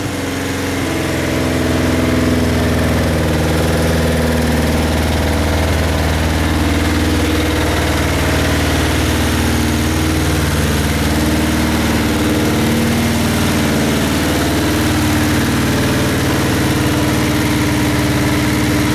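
Kawasaki Z750FX Type 3 (KZ750E) air-cooled inline-four engine idling steadily.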